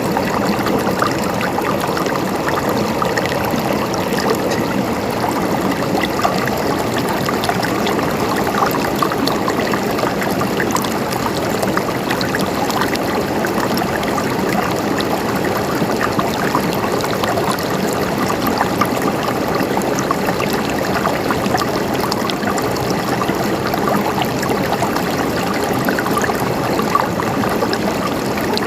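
Running water, like a small stream, flowing steadily with a continuous gurgle and many small splashes.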